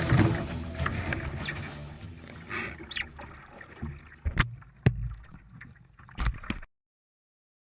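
Water splashing and sloshing around a kayak and paddle, fading over the first couple of seconds, with three sharp knocks later on before the sound cuts off abruptly near the end.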